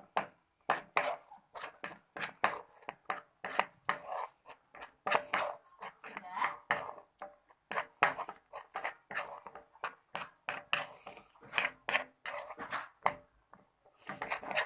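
Glue-and-liquid-soap slime being stirred and folded in a container with a stirrer: a fast, irregular run of wet clicks, squelches and scrapes.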